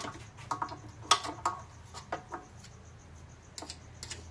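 Irregular light taps and clicks of small hard parts being handled and knocked together, several in the first two and a half seconds and a few more near the end, over a faint steady low hum.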